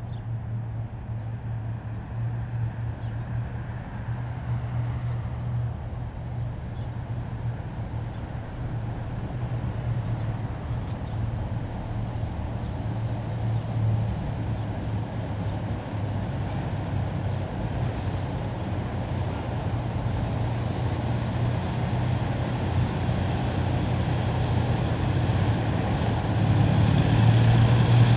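Heavy military vehicles' diesel engines running in a steady low drone with road and tyre noise, growing gradually louder as the column comes closer.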